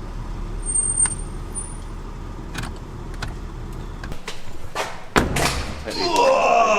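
Car engine idling, switched off about four seconds in, followed by clicks and a door clunk.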